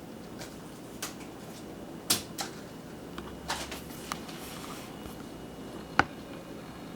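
Cats playing with a feather wand toy: scattered light clicks and knocks at irregular intervals, the sharpest about two seconds in and about six seconds in.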